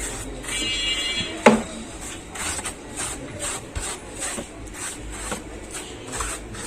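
Hand work on a wooden speaker cabinet: short rubbing strokes repeating about two to three times a second, with one sharp knock about a second and a half in.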